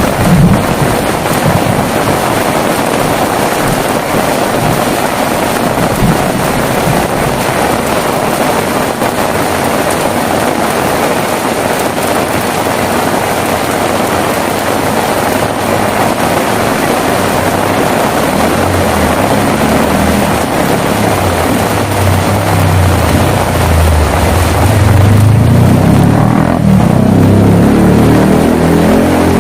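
Heavy rain falling steadily, with a low rumble of thunder building up in the second half and growing louder near the end.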